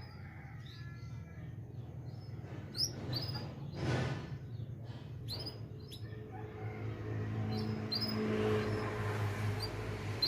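Young edel sanger finch chirping and twittering in short, high, scattered notes over a steady low hum.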